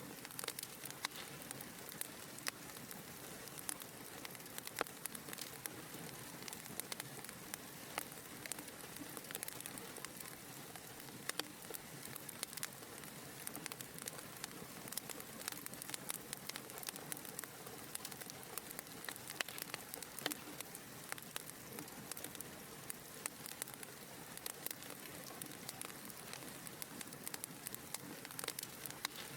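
Wood fire burning in a fireplace: a steady soft hiss of flames with frequent sharp, irregular crackles and pops.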